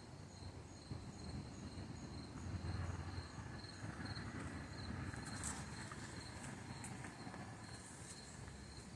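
Insects chirping in a steady rhythm of about two pulses a second, faint, over a low background rumble.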